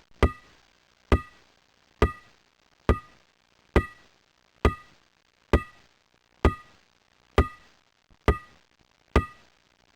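A sharp knock repeated evenly about once a second, eleven times, each strike followed by a brief ringing tail.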